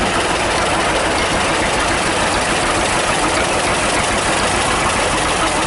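Old John Deere tractor engine idling steadily, running on its own with no revving.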